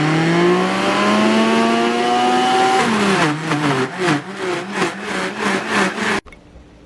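Countertop blender motor running on a thick smoothie: its pitch climbs as it spins up, then drops around three seconds in and wavers in an uneven pulse as the thick mixture churns, cutting off suddenly about six seconds in.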